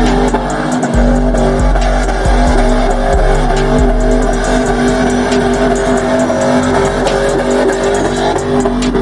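A car engine held at steady high revs with tyre squeal and noise, over music.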